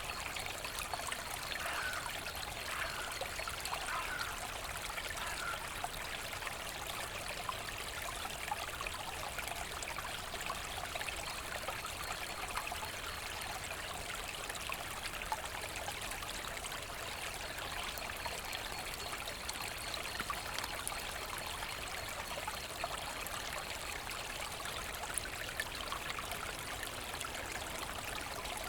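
Forest brook flowing: a steady babble and trickle of water, with fine splashes throughout.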